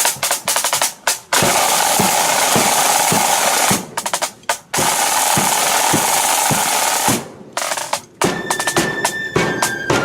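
Marching flute band's drum corps playing: sharp snare strokes, then two long snare drum rolls over a steady bass drum beat. About eight seconds in, the flutes come in on held notes.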